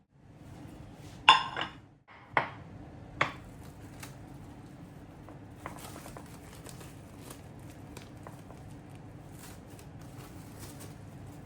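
Three sharp clinks and knocks of kitchen utensils and dishes in the first few seconds, then quieter handling sounds with faint small ticks.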